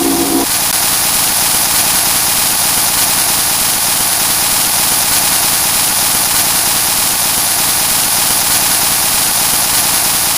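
Harsh noise music: a loud, dense, unchanging wall of distorted electronic noise, heaviest in the hiss range. A cluster of steady low tones beneath it cuts off about half a second in.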